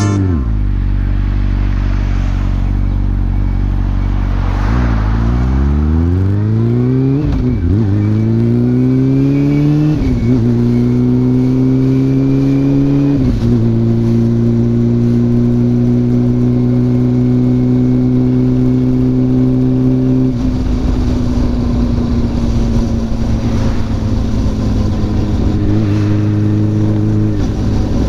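Honda CB400SF inline-four with a WR'S slip-on muffler, exhaust note rising as the bike accelerates through three gear changes, each marked by a sudden drop in pitch. It then settles into a steady cruise, with rushing noise growing stronger after about twenty seconds and a short blip near the end.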